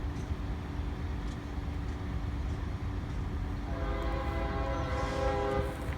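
Freight locomotive's air horn sounding one steady multi-note blast of about two seconds, starting a little past halfway, over the steady low rumble of the passing train.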